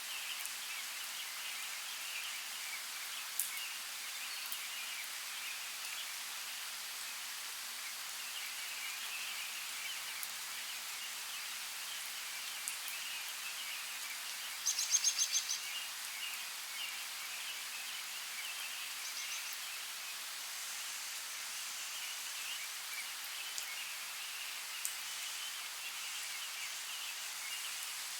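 Steady rain, an even hiss with a crackle of drops and a few separate drip ticks. About halfway through, a short rapid run of high chirps.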